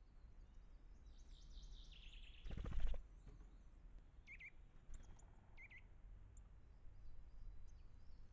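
Small woodland birds calling at a forest feeding spot: a quick descending run of high notes, then a few short chirps. About two and a half seconds in, a loud half-second burst of rapid beats close to the microphone is the loudest sound.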